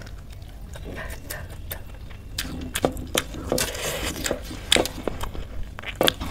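Close-up chewing of a mouthful of rice and curry, full of small wet clicks and crackles that come more often from about halfway through. Fingers mixing rice on a steel plate add soft squishing.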